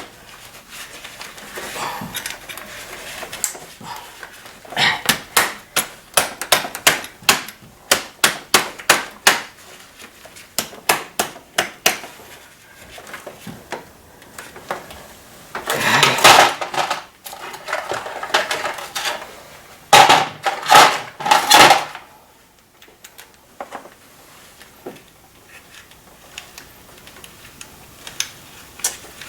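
Metal hand tools and engine parts clicking, knocking and clattering in irregular runs during spark plug replacement work, with louder clatters near the middle.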